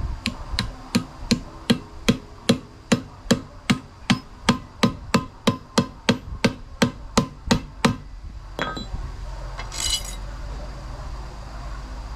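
A hammer striking in a steady series of about twenty even blows, roughly two and a half a second, stopping about eight seconds in. One more blow follows, then a short hiss about ten seconds in.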